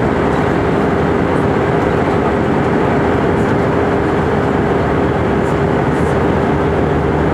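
Steady engine and airflow noise heard inside the cabin of an Airbus A319 airliner, with a constant droning tone running through it.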